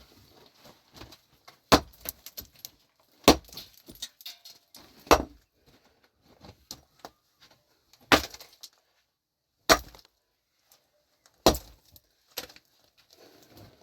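A hand tool striking something hard with a clinking ring, six heavy blows spaced about one and a half to three seconds apart.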